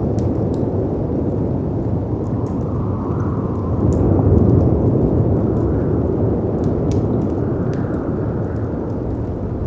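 Storm ambience: a deep, steady rumble of howling wind and sea waves crashing, swelling louder about halfway through. Scattered sharp pops and crackles from a wood fire sound over it.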